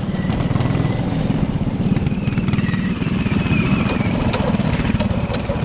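Minibike's small engine running steadily, its rapid firing pulses the loudest sound throughout.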